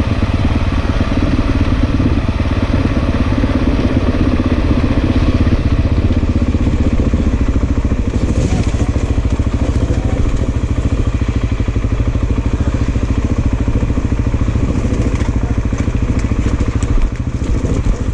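Large single-cylinder dual-sport motorcycle engine running steadily off-road, with a short dip in level near the end.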